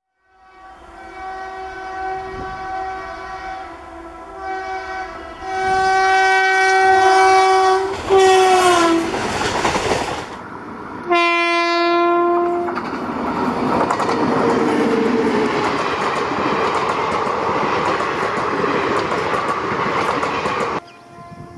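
Electric locomotive horn sounding three long blasts, the third dropping in pitch as it passes, then one more blast about two seconds long. The steady rumble and rattle of a passenger train's coaches running past follows and cuts off abruptly near the end.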